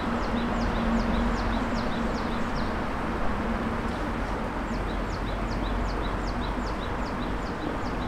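A bird calling in a quick series of short, high, down-slurred chirps, about three a second, pausing about three seconds in and then starting again, over a steady background rush of outdoor ambience. A low steady hum sounds under it for the first three seconds.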